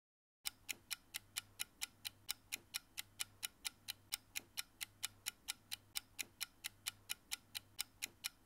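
Clock-like ticking sound effect of a countdown timer, sharp even ticks about four a second, starting about half a second in.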